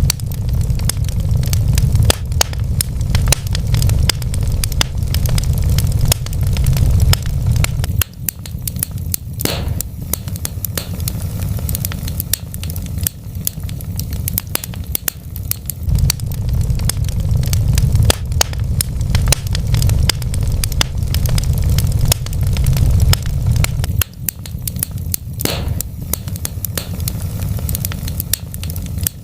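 Wood fire in a fireplace crackling, with frequent sharp pops and snaps over a low rumble of the flames that swells and eases. Two louder pops stand out, one about ten seconds in and one near the end.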